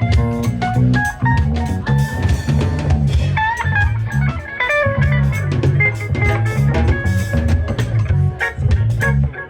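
Live band playing an instrumental passage: electric guitar picking short melodic lines over a repeating bass line and a steady drum-kit groove with hand percussion.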